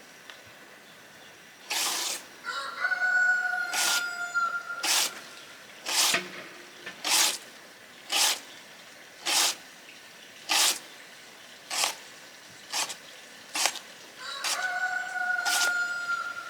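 A rooster crows twice, once about three seconds in and again near the end, each crow a long held call. Under it runs a steady series of short, noisy strokes, about one a second.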